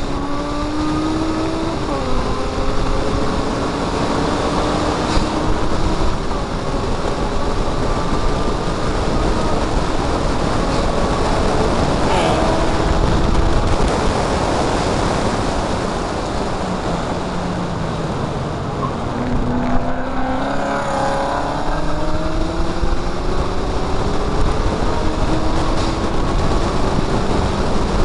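Mazda MX-5's four-cylinder engine at racing speed, its pitch climbing as it revs out and dropping back at gear changes a couple of seconds in, near the middle and again later, under heavy wind rush on the microphone.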